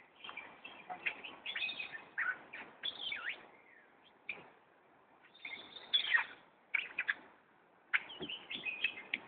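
Birds chirping in short runs of high calls, some sliding down in pitch, with a pause a little under halfway through.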